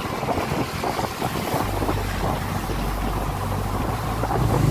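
Wind rushing over the microphone of a moving motorcycle, with the engine's low steady hum coming in about a second and a half in.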